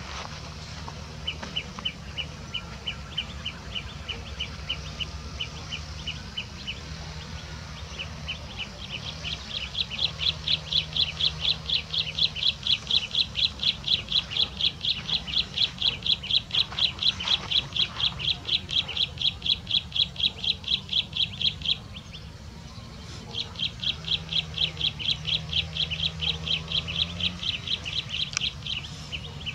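A bird calling in long runs of short, high, sharp chirps, about five a second. The run starts faintly, grows loud about nine seconds in, and breaks off for about a second a little past twenty seconds in before going on. A low steady hum lies underneath.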